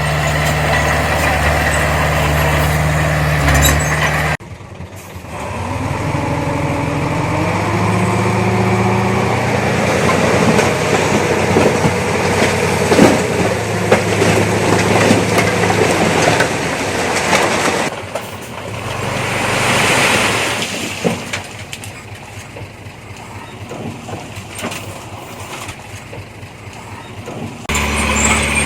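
Diesel engines of heavy earthmoving machinery (a bulldozer and a dump truck) running under load, engine pitch rising and falling as they work. About two-thirds of the way through comes a swell of hiss, and the engine sound changes abruptly a few times.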